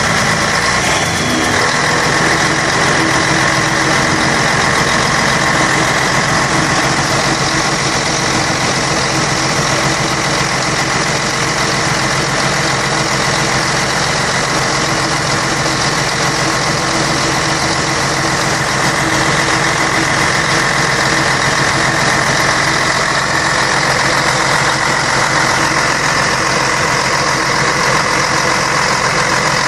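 Scania K113 bus's 11-litre straight-six diesel engine running steadily at an even speed.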